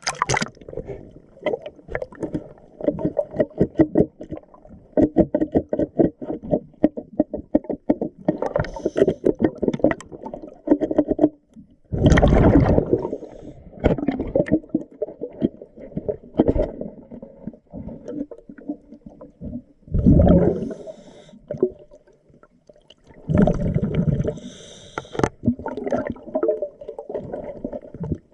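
Underwater sound of a diver's scuba breathing: exhaled bubbles gurgling out in loud bursts every several seconds, with a dense crackle of clicks and knocks in between.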